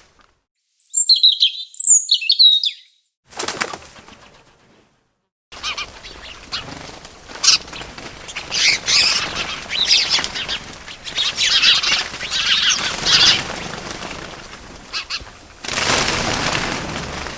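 Birds: a few quick high chirps in the first couple of seconds, then, after a brief gap, a long stretch of fluttering, flapping-wing noise that swells near the end.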